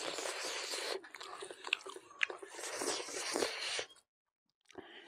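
Close-up chewing of a mouthful of food, with crunching and wet mouth clicks, stopping about four seconds in.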